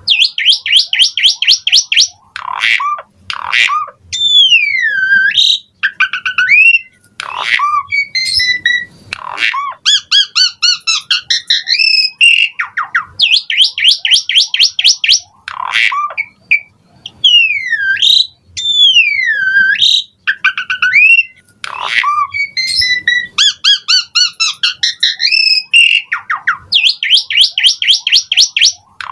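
Asian pied starling singing: fast rattling runs of short repeated notes, swooping whistles that fall then rise, and harsh squawks, in a loud sequence that repeats about every thirteen seconds.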